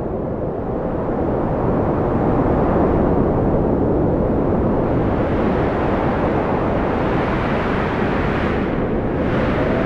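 Strong wind blowing in a steady, deep rush that swells and eases slightly.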